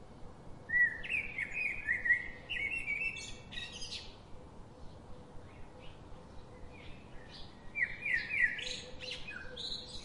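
A bird singing in two phrases of quick, warbling chirps, the first starting about a second in and the second near the end, over a faint steady hiss.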